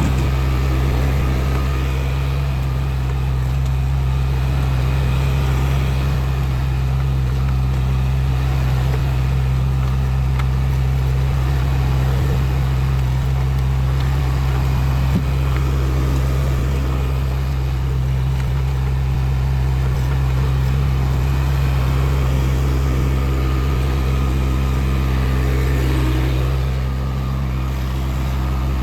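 Tractor engine running steadily at a constant speed, with a brief knock about halfway through and a slight dip in level near the end.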